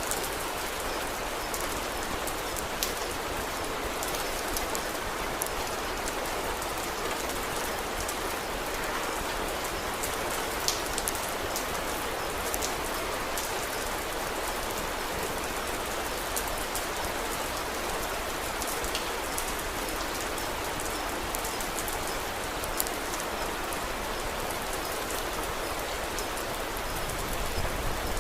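Steady rain with scattered sharp ticks and clicks over it.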